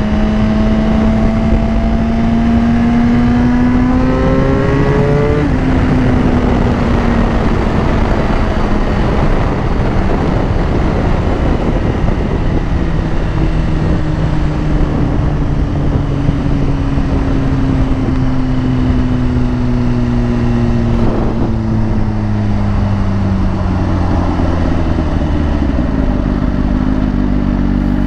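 Motorcycle engine under way, heard from the rider's helmet mic with steady wind rumble: it accelerates for about five seconds, shifts gear, then slowly drops in pitch as the bike eases off, settling near the end.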